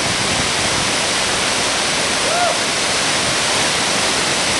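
Steady rush of falling water, a loud even hiss that holds unchanged through the whole stretch, typical of standing close to a waterfall.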